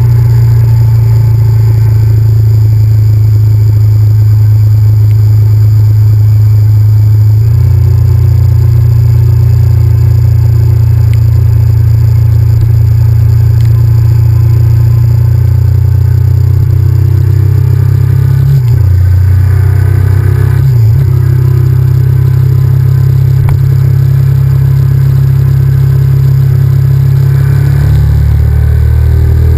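Honda VTR1000F's V-twin engine running loud and steady as the motorcycle is ridden, heard from a camera mounted on the bike; the engine note steps down and back up a few times, around a third of the way in, past the middle and near the end.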